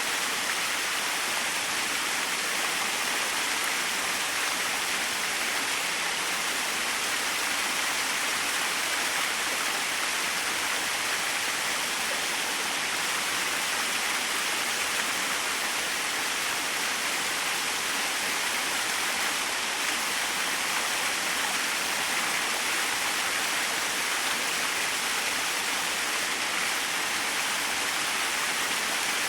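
Small waterfall: a steady rush of falling and splashing water, even and unchanging, with little low rumble.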